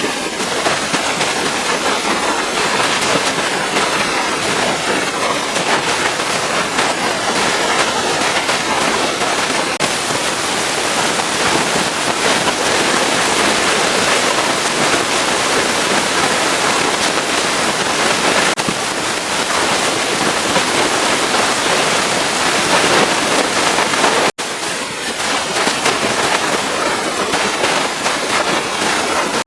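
Pressure washer jet spraying water against a truck: a loud, steady hiss of spray, broken by a split-second gap about twenty-four seconds in.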